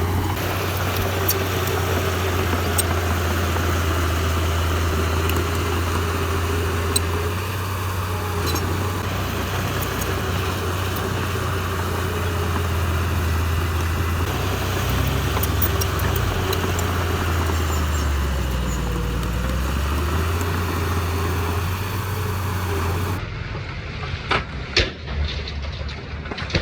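Heavy diesel engine of a construction machine running steadily at a low pitch, dropping briefly in pitch and recovering about two-thirds of the way through. Near the end the engine sound gives way to a quieter hiss with a few sharp knocks.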